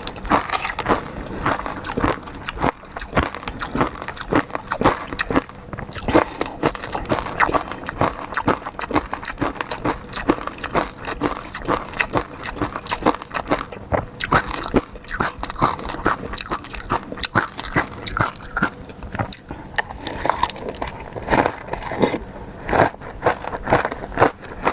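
Close-miked mukbang eating: a person biting and chewing seafood, with dense, irregular wet clicks and crunches throughout.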